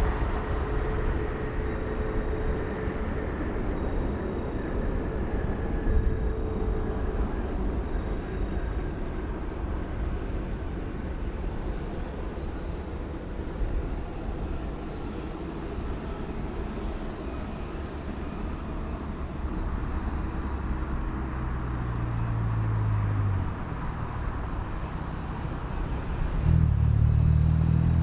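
Jet airliner noise from a landing Boeing 777: a broad rumble with faint whining tones that slowly dies away. Near the end a road vehicle's engine comes up close and is louder than the fading jet.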